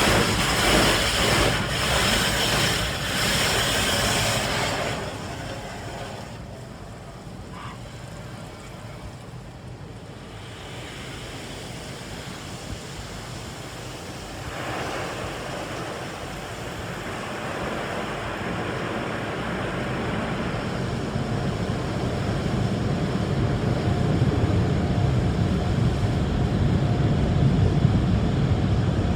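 Automatic car wash tunnel equipment with a loud hissing, rushing noise at first, which drops away after about five seconds. A steady rushing noise then builds louder through the second half.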